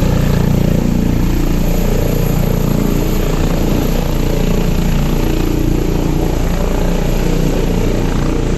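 Helicopter running close by: a steady, loud drone of rotor and engine.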